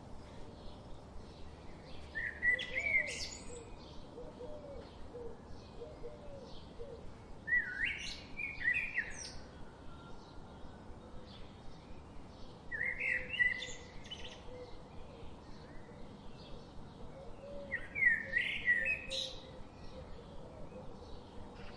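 Birds singing: a louder, sweeping song phrase about every five seconds, four times, over a steady run of short, quick high chirps.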